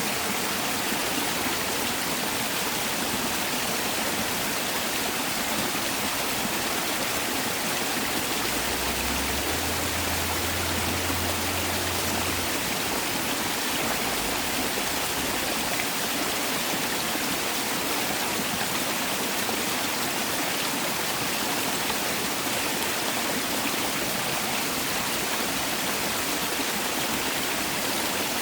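Mountain valley stream rushing steadily, an even wash of flowing water.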